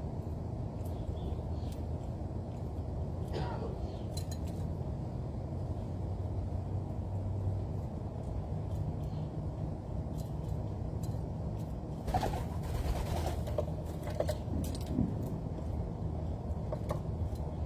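Doves cooing at a bird feeding spot over a steady low background rumble, with a louder rustling stretch about two-thirds of the way through.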